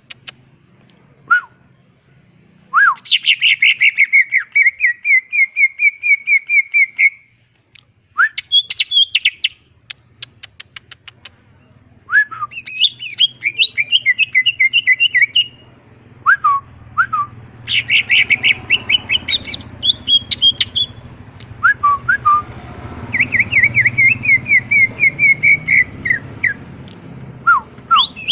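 Cucak ijo (green leafbird) singing: phrases of a few seconds, each opening with rapid ticking and running into fast chattering trills, with short pauses between. A low hum sits underneath through the later part.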